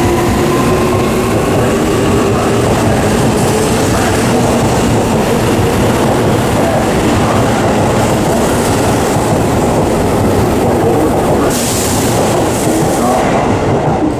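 Seibu 6000 series electric train accelerating out of a station: the traction motor whine rises in pitch over the rumble and clatter of the wheels as the cars pass. A burst of hiss comes near the end as the last car clears.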